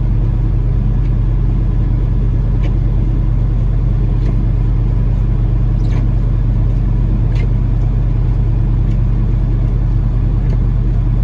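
Peterbilt 579 semi truck's diesel engine idling steadily, left running for a cool-down before shutdown. Faint short ticks come about every one and a half seconds.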